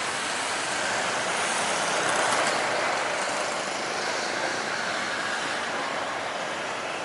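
Jet airliner engine noise on landing approach: a steady rushing sound that swells a little about two seconds in and then slowly eases.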